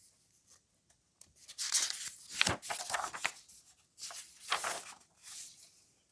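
Paper pages of a book rustling as they are handled and turned, in bursts of about a second, with a few short pauses between them.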